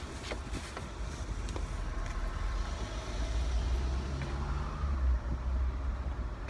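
Car engine idling: a steady low rumble heard inside the cabin, with a low hum growing a little stronger about four seconds in.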